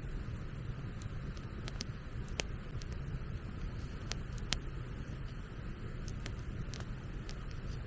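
Wood bonfire crackling, with irregular sharp pops, over a steady low rumble of wind on the microphone.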